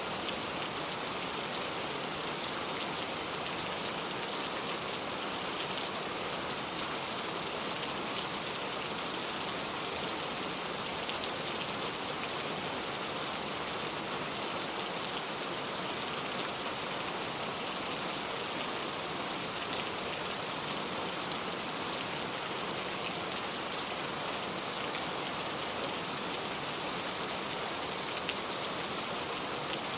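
Heavy rain pouring steadily, a dense even hiss of falling rain with scattered drop impacts on a surface.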